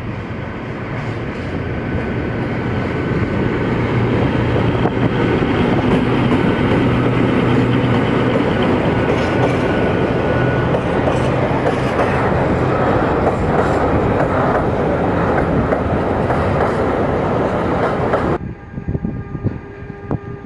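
A train passing close by, growing louder over the first few seconds and then holding steady. Near the end it cuts off abruptly to a quieter sound with a few steady tones.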